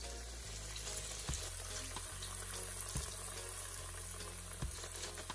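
Flour-dusted ribs frying in shallow oil in a frying pan: a steady sizzling hiss with a few sharp pops and crackles.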